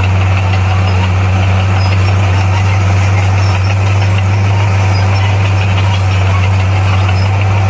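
Bulldozer's heavy diesel engine running steadily with a deep, even hum, no change in revs.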